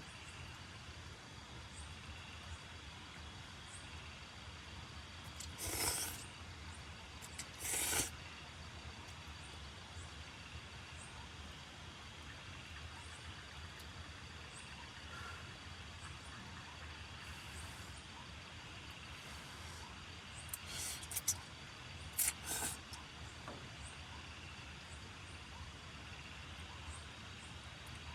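Steady outdoor hiss, interrupted four times by brief, loud bursts of hissing: two about a fifth of the way in and two about three-quarters through.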